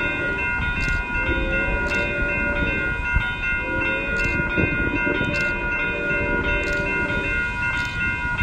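A train running by, a steady low rumble with sharp ticks about once a second. Several steady high ringing tones sound throughout, with wavering mid-pitched tones that come and go.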